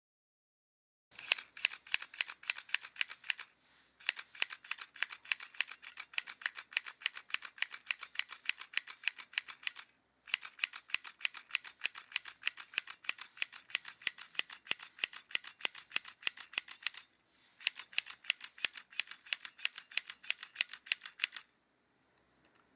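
Handheld mini sewing machine stitching: a fast, even run of sharp clacks from its needle mechanism, several a second. It starts about a second in, pauses briefly three times and stops shortly before the end.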